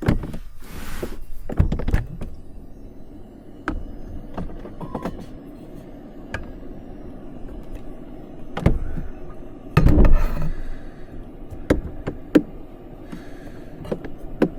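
Knocks, thunks and clatter of gear being handled in a small space, with a lid or door opening and closing, loudest about ten seconds in, over a steady low hum.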